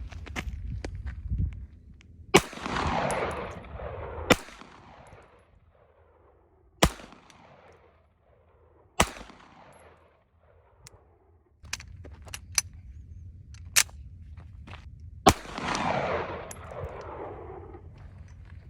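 Mamba 9mm pistol fired in single shots, about five, spaced a couple of seconds or more apart, several with a long echo trailing off. Quieter clicks and knocks come between the later shots.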